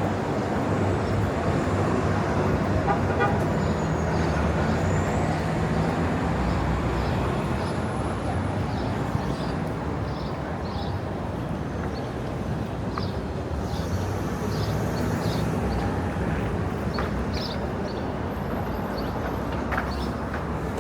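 City street traffic: a steady rumble of passing motor vehicles, with a low engine hum from a nearby vehicle a few seconds in.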